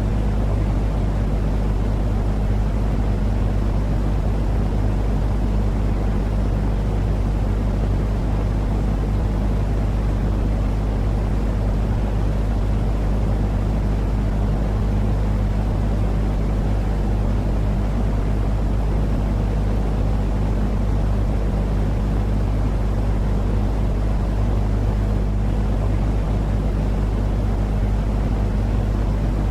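Steady, unchanging sleep noise for a baby, deep and rumbly rather than hissy, with a faint steady hum underneath.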